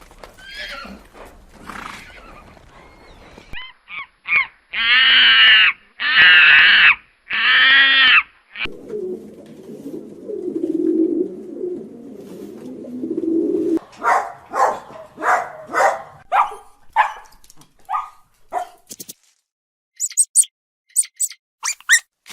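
A series of different animal calls: three loud, drawn-out calls about a second each, then several seconds of a low, rough sound, then a run of short repeated calls and, near the end, a few brief high chirps.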